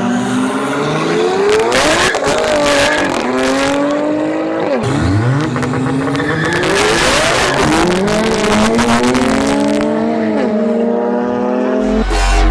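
Car engine accelerating hard through the gears. Its pitch climbs and drops back at each gear change, several times.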